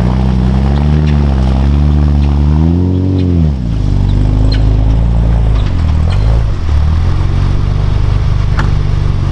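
Off-road vehicle engine labouring through mud: the engine note climbs and falls about three seconds in, then runs steadier. A few short clunks come from the drivetrain.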